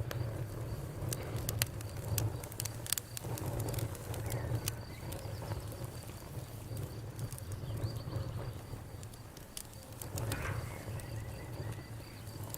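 Wood fire crackling, with irregular sharp pops and snaps over a steady low rumble of the burning logs. A faint, high, rapid chirping runs underneath, like crickets.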